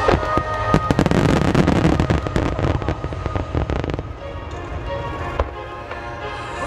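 Starmine fireworks barrage: shells launching and bursting in rapid succession, a dense wall of bangs and crackle for about the first four seconds, then thinning to scattered pops. Music plays underneath.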